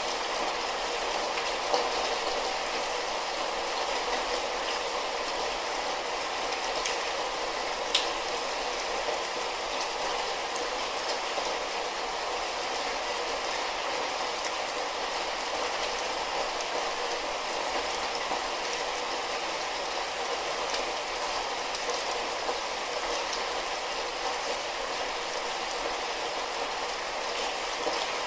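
Light rain falling steadily, an even hiss with the odd sharper drip or tick of drops striking a surface.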